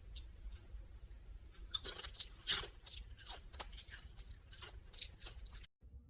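Loud, crunchy chewing: irregular crunches of something being munched, growing from faint ticks to a dense run about two seconds in, then cutting off abruptly near the end.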